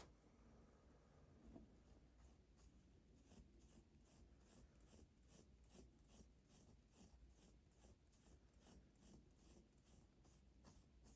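Faint scratching of writing by hand on paper, in quick, regular strokes about three a second.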